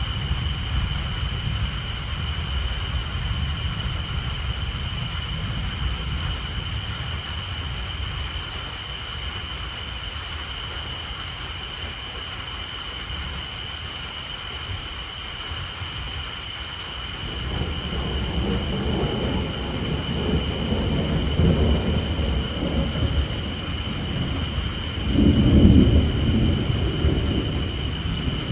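Steady rain on a tin roof under a constant high chorus of tree frogs. Low thunder rumbles in about two-thirds of the way through, loudest near the end.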